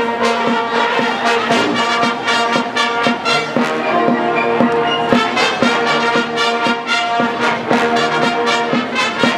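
Marching band music led by the brass, trombones and trumpets holding and accenting chords over frequent sharp percussive hits.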